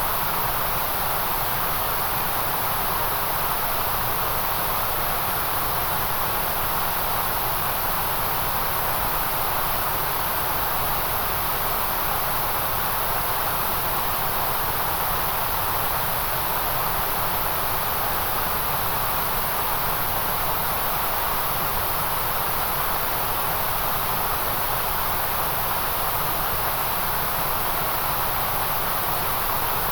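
Steady synthetic white noise: a constant, even hiss that does not change.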